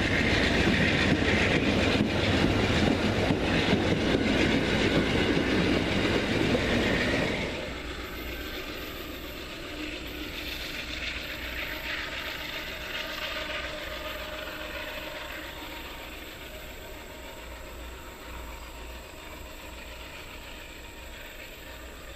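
Train rolling past close by, wheels running on the rails. About seven seconds in, the sound drops sharply, then it fades steadily as the train moves away.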